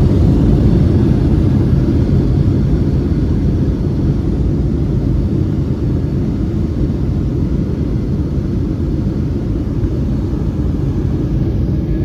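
Cabin rumble inside a Boeing 737-700 from its CFM56 jet engines and the airframe, a loud steady low roar that slowly eases as the jet slows on the ground just after landing.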